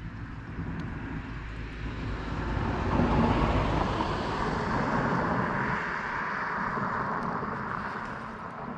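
Motorized bicycle's small engine running under way, with a broad rushing noise that swells about three seconds in and slowly fades near the end.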